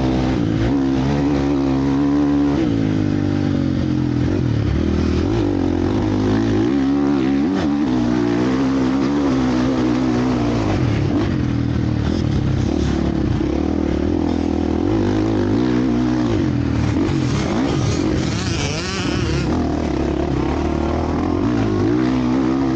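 Several motocross bikes' engines revving hard at once, their pitches rising and falling as the riders work the throttle and shift through the gears.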